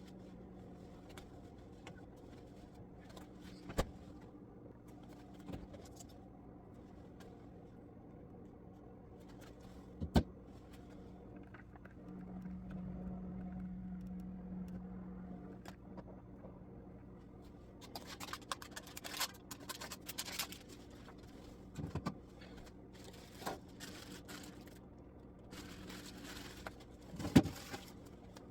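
Food containers being handled while a fridge is cleaned out: a few sharp knocks and bouts of scraping and rustling over a steady low hum.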